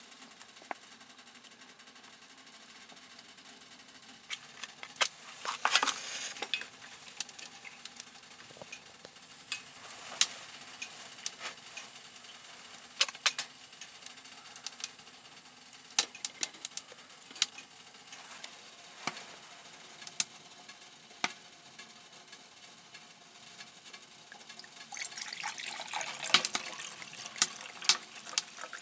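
Camp cooking: food sizzling briefly in a pan twice, the second time longer and louder near the end, among scattered sharp clicks and taps of utensils.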